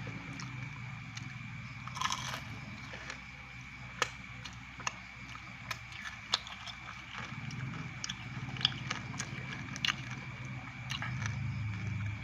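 Close-up chewing and crunching of fried grasshoppers, with sharp crunches about every second.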